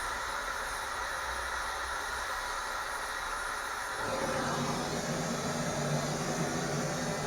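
Hot cutting work on a steel heating-main pipe: a steady hiss, joined about four seconds in by a louder, lower hum.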